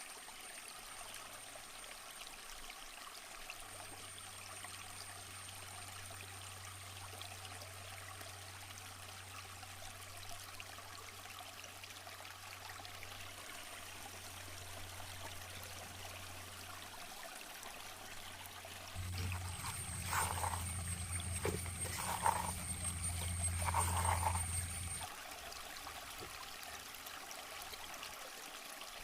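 Steady running water with a thin high whine. About two-thirds of the way in, a louder stretch of about six seconds brings a low hum and three short animal calls, roughly two seconds apart.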